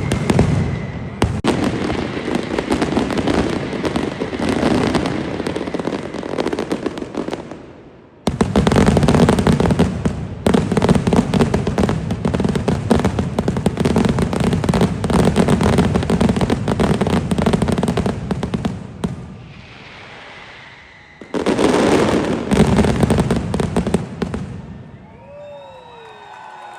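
Fireworks firecrackers going off in dense, rapid crackling volleys, one bang after another with no gaps between them. The barrage breaks off briefly about 8 seconds in and again for a couple of seconds past the middle, then resumes, with a few whistling glides near the end.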